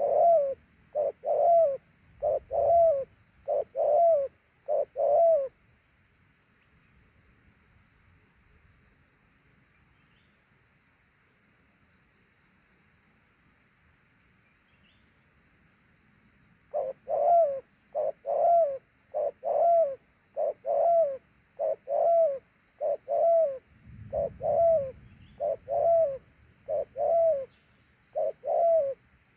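Spotted dove cooing in a steady run of short 'hú hú' notes, about two a second: one run for about five seconds, a pause, then another run from a little past the middle to the end. A faint steady insect hiss sits underneath.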